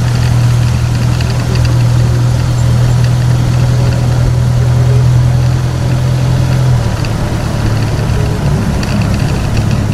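Park train's engine running with a steady low hum that shifts lower about seven seconds in.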